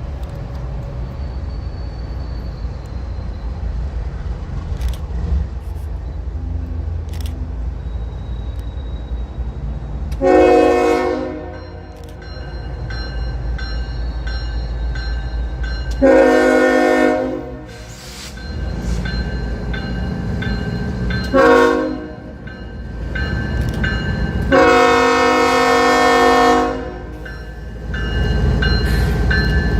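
Diesel locomotive air horn sounding a chord in the grade-crossing pattern: long, long, short, long, over the low rumble of the approaching locomotive, which grows louder near the end.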